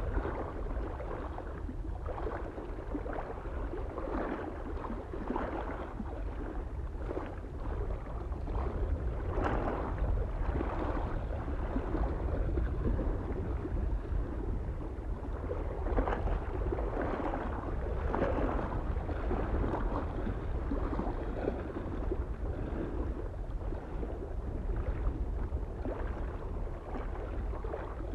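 Small waves lapping at a lake shore in irregular little splashes, over a steady low rumble of wind.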